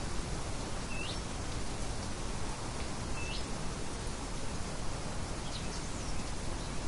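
Steady hiss of light wind, with a small bird giving short rising chirps: two clear ones about two seconds apart, then a couple of fainter ones near the end.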